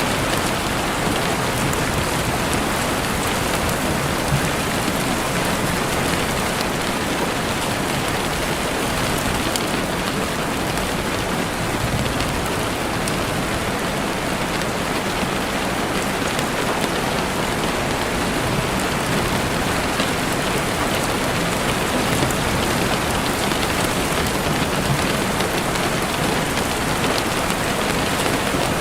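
Heavy rain beating steadily on a window pane: a dense, even hiss with scattered sharper drop ticks.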